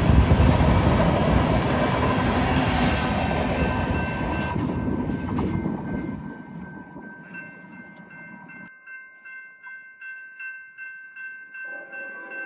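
Freight train rumbling past and fading away as it recedes. Over the second half, a steady chiming ring of several tones takes over, pulsing about twice a second, with lower notes joining near the end.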